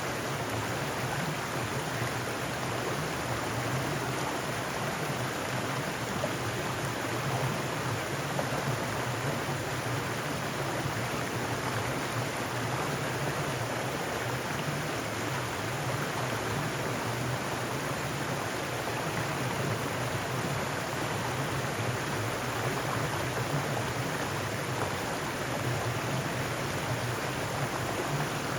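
Mountain stream rushing over rocks, a steady, unbroken sound of flowing water.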